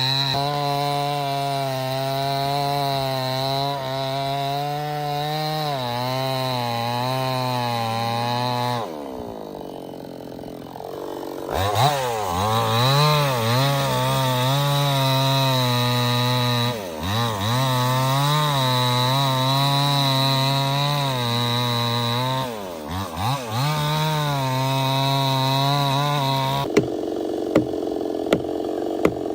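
Chainsaw running at high revs while cutting wood. About nine seconds in the revs drop away, then the saw is throttled back up a couple of seconds later, with brief dips. Near the end the engine note gives way to a rougher, noisier sound with a few sharp knocks.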